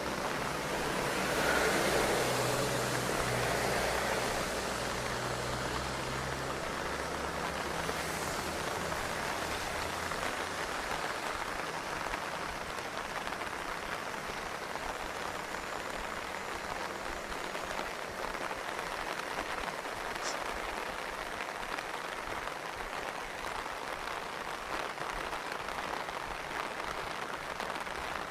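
Steady rain falling, an even hiss throughout. In the first few seconds a motor vehicle's engine is heard as well, loudest around two to four seconds in and fading out by about ten seconds.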